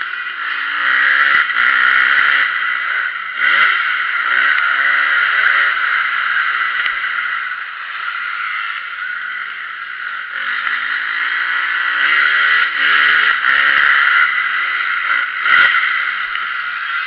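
Motocross bike engines revving, their pitch rising and falling over and over as they accelerate and shift, with a few sharp knocks along the way.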